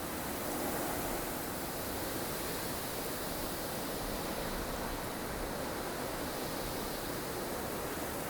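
Strong wind of a snowstorm blowing as a steady, even rush with gentle swells, a little louder about a second in.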